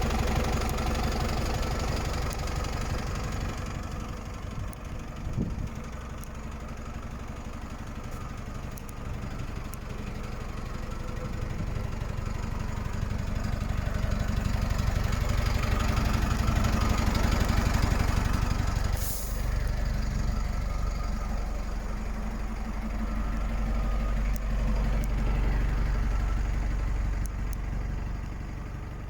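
DAF LF 45.180 truck's four-cylinder diesel engine running at idle, growing louder through the middle and easing back later. About two-thirds of the way through there is a brief hiss.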